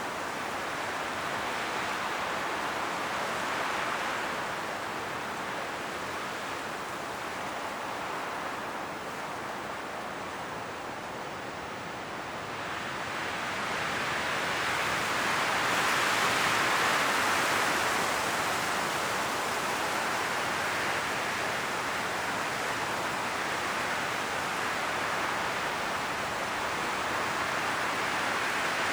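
Strong wind blowing through forest trees with a steady rushing of leaves, easing off for several seconds and then rising into a stronger gust about halfway through.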